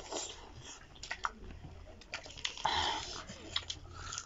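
Close-up eating sounds of people chewing spicy duck meat with their mouths: wet smacking and small clicks, with a louder wet burst about two and a half seconds in.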